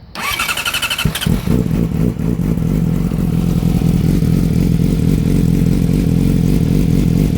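2008 Yamaha R6's inline-four engine, exhausting through a Two Brothers exhaust with the catalytic converter removed, is cranked by its starter for about a second, fires, and settles into a steady, loud idle on a cold start.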